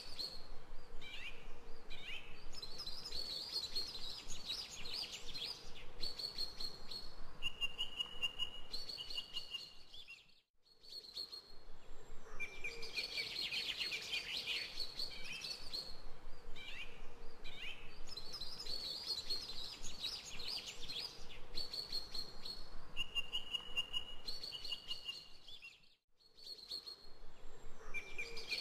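Background recording of birdsong: several birds chirping and trilling, a loop that repeats about every 15 seconds, dropping out briefly twice.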